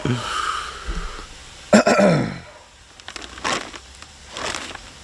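A person's voice making short non-speech sounds, like throat clearing or a groan, loudest about two seconds in, followed by two brief noisy bursts.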